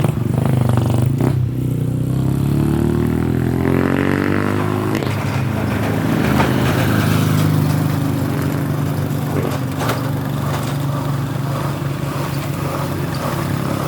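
Small vehicle engine, of the motorcycle kind, picking up speed for a few seconds and then running steadily, with rattling over it.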